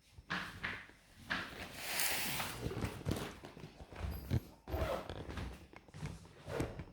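Irregular knocks, bumps and rustling of a person moving about and handling belongings, with a longer rustle about two seconds in.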